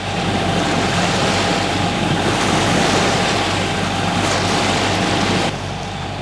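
Wind and sea rushing past a sailboat, with the boat's inboard engine humming steadily underneath as it motors. About five and a half seconds in, the rushing drops away sharply and the engine hum carries on.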